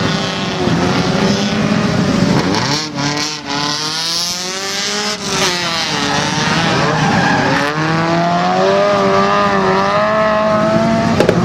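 Car engine driven hard, its pitch dipping about three seconds in, climbing steeply, then falling and climbing again as it accelerates through the gears.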